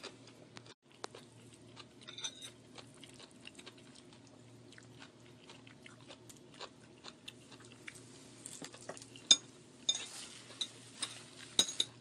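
Close-up chewing with small wet mouth clicks. In the last few seconds a fork clinks and scrapes on a plate in several sharp, ringing taps.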